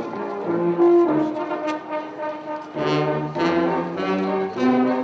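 Brass band playing a tune in held, changing chords, with a short break about two and a half seconds in before a fuller, louder chord.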